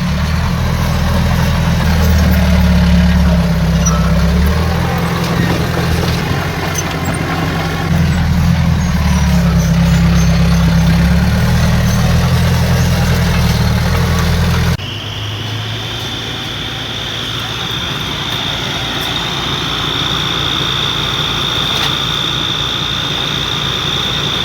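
Heavy diesel earthmoving machinery working: a deep engine rumble that rises and falls with load for the first half. It changes abruptly about two-thirds of the way through to a lighter engine sound with a steady high-pitched whine.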